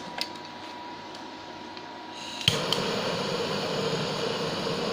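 Handheld gas torch clicking on about halfway through, then a steady hissing flame as the solder is heated to keep it molten.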